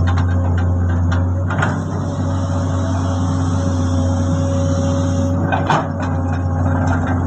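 Komatsu excavator's diesel engine running steadily while loading a dump truck, with a louder knock about a second and a half in and another near six seconds, plus a few lighter clicks.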